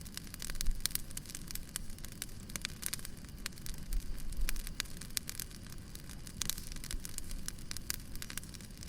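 Burning firewood crackling: irregular snaps and pops over a low, steady rumble.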